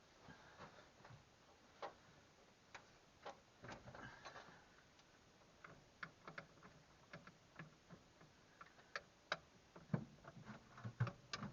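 Scattered light clicks and knocks of hand tools and engine parts being handled while a fan belt is fitted and tightened on a truck engine, coming irregularly, a few louder near the end.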